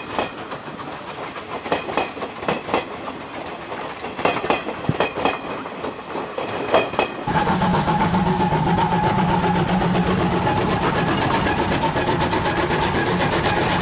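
Train's passenger coaches rolling past, their wheels clattering irregularly over rail joints. About seven seconds in, the sound changes abruptly to a louder, steady train running noise with a steady hum.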